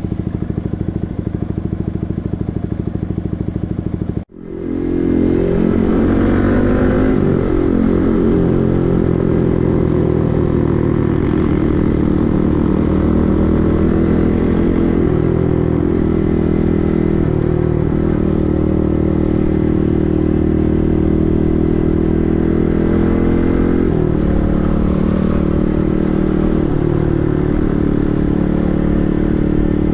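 Yamaha MT-15's 155 cc single-cylinder engine running through an aftermarket SC Project full-system exhaust while riding, the revs rising and falling several times. The sound cuts out sharply for a moment about four seconds in, then swells back up.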